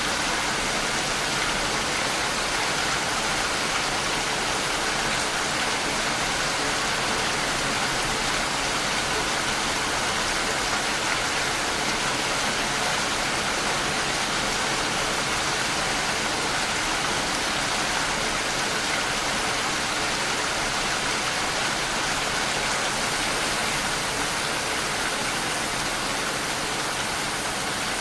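Steady, even rain falling, a dense hiss without distinct drops or thunder.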